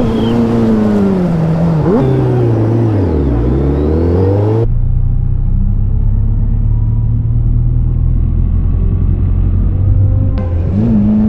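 Superbike engine: the revs fall away over the first few seconds, then it runs steadily at low revs for several seconds, and near the end the revs rise again.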